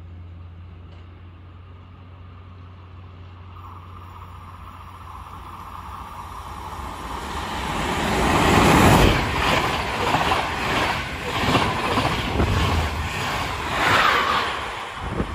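Electric Intercity train, led by locomotive E401 039, approaching and passing through close by at speed. A low hum gives way to a rising rush that peaks about nine seconds in, then a rapid run of wheel beats as the coaches' bogies go past, loudest again near the end.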